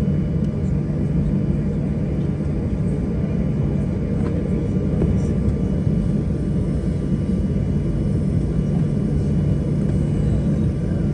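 Steady low rumble and hum inside the cabin of a Boeing 737-800 on the ground before takeoff.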